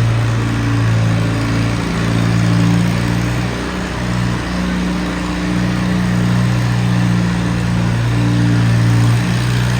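Tractor engine running steadily and loudly, its pitch shifting a little now and then.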